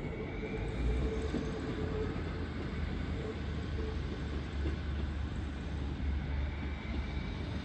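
Passenger train approaching along the platform: a steady low rumble, with a tone that fades out over the first couple of seconds.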